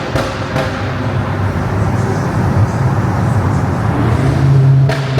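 A car driving, with a steady low engine hum and road noise.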